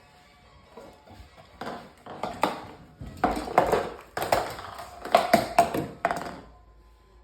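Irregular taps and knocks, some with a brief ringing tone, growing louder and closer together through the middle and dying away near the end.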